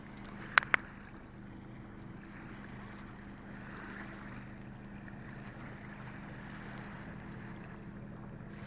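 Wind and water noise out on a lake from a kayak, with a steady low hum underneath. Two sharp knocks come close together a little over half a second in.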